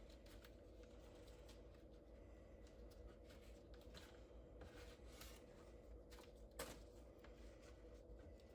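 Faint rustling and small clicks of a piece of material being cut by hand, with one sharper click about six and a half seconds in.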